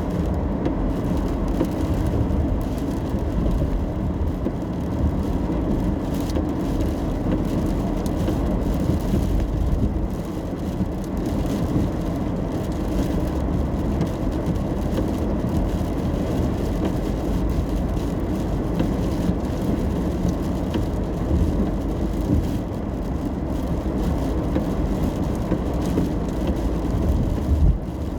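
Steady road noise inside a car driving in the rain: a low rumble of engine and tyres on wet pavement, with a faint hiss above it.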